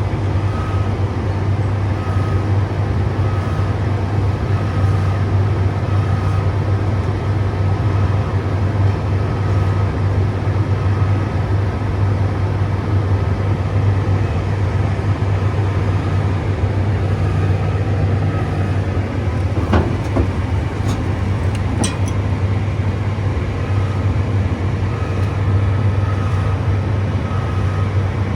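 Excavator's diesel engine running steadily with a deep drone, and a couple of short, sharp knocks about twenty seconds in.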